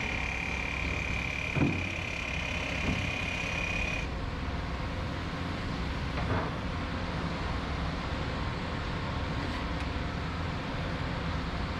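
Heavy construction machinery running steadily, a low engine hum with a high steady whine that cuts off abruptly about a third of the way in. Three short knocks come through, the loudest just before two seconds in.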